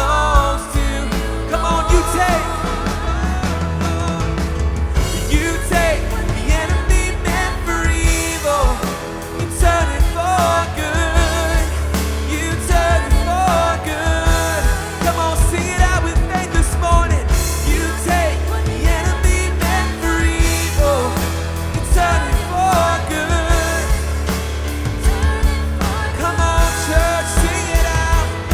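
Live worship band playing a full, loud section: drums, bass, piano and synth, with voices singing over them.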